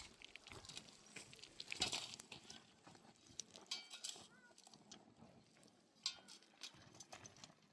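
Faint scattered clicks and clinks from goats and sheep moving about, with a short rattle near the middle and a couple of brief high chirps.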